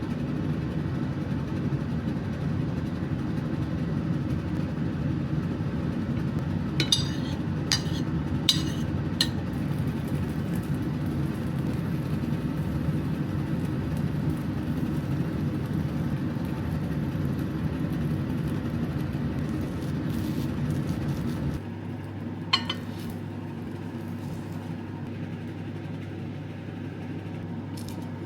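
A steady low hum with a few short, light clinks: four in quick succession a few seconds in and one more later on. The hum drops in level and changes about three quarters of the way through.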